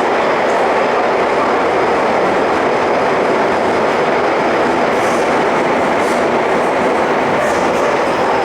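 Tobu 50050-series electric commuter train running at steady speed through a subway tunnel, heard from inside the car: a loud, even rumble of wheels on rail, with a few faint clicks in the second half.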